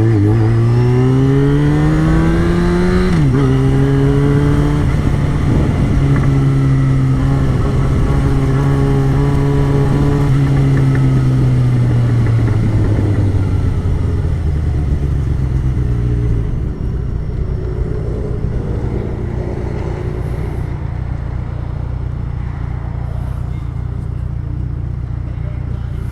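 Yamaha XJ6's 600 cc inline-four motorcycle engine with an open 'pipe only' exhaust, pulling up in pitch and shifting gear about three seconds in, then holding a steady speed. It slows gradually past the middle and drops to a lower, quieter steady run for the last ten seconds.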